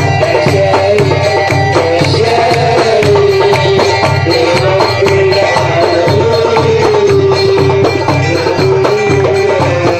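Live Port Said simsimiyya band music with no singing: a wavering melody line over a steady, even hand-drum beat.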